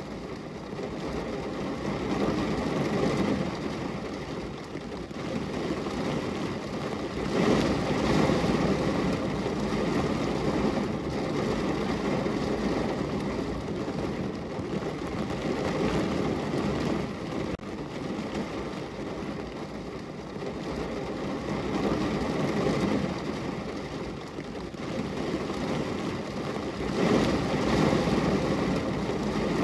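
Rain falling steadily on a window pane, heard as an even rushing hiss. A deeper rushing swells and eases several times, loudest about seven seconds in and again near the end.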